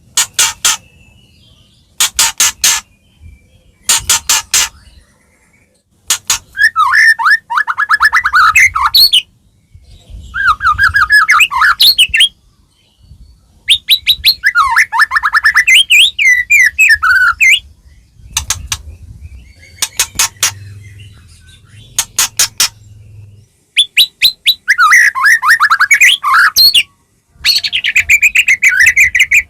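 White-rumped shama (murai batu) singing loudly in a series of energetic phrases. Rapid runs of sharp clicks alternate with fast trilled and warbled passages, broken by short pauses.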